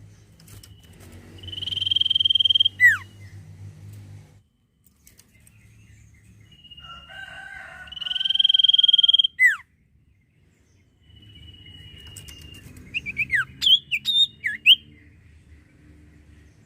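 Common iora singing: two long drawn-out whistles, each swelling in loudness for about a second and ending in a quick downward slur. Near the end comes a burst of quick down-slurred chirps. A low steady hum runs under parts of it.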